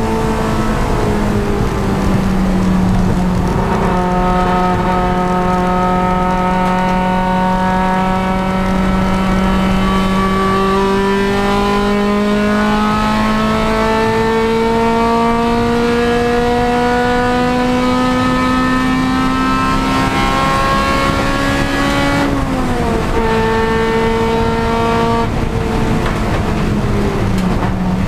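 Honda Civic Si race car's four-cylinder engine running hard at racing speed. Its note climbs slowly for about twenty seconds, drops sharply a little past two-thirds of the way in, climbs again, and falls once more near the end.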